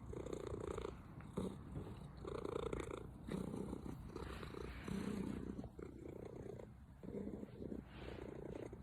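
Domestic cat purring close to the microphone, the purr surging and dipping unevenly with its breaths. The owner jokingly calls this a 'misfiring' purr.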